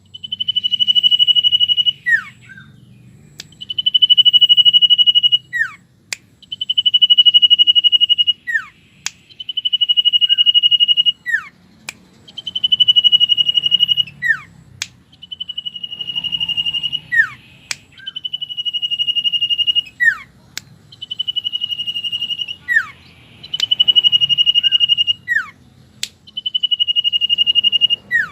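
Common iora (cipow) song. Each phrase is a long, steady, high whistle ending in a short note that slurs down, repeated about every two and a half seconds. Sharp clicks fall between some phrases, over a faint low hum.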